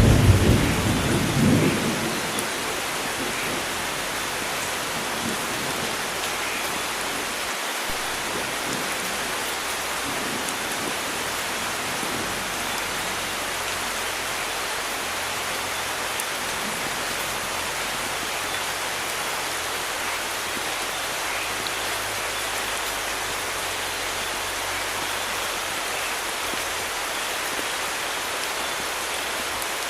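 Steady heavy rain hissing, with a low rumble of thunder dying away in the first two seconds.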